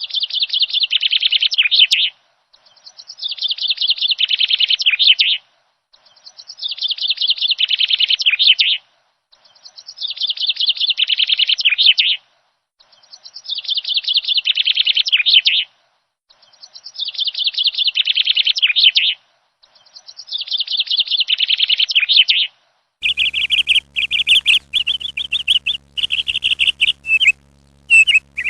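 Kea, a large New Zealand alpine parrot, calling. The same rapid pulsing call of about two seconds repeats seven times at even spacing. Near the end it gives way to a denser run of shorter calls over a low steady hum.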